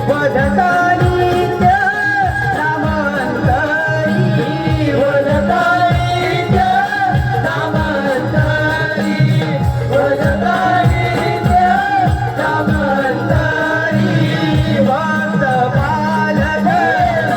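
Naman folk devotional music: a wavering melody over steady hand-drum beats, with a singing voice in the mix.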